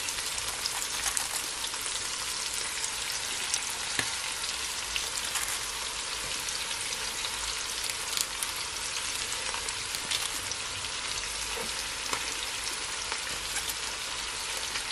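Saltfish, carrots and sweet peppers frying in oil in a pan: a steady sizzle with scattered crackles and a few faint clicks.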